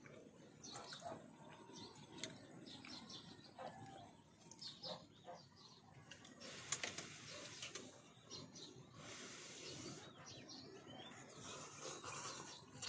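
Faint outdoor ambience with scattered short bird chirps and a few soft clicks.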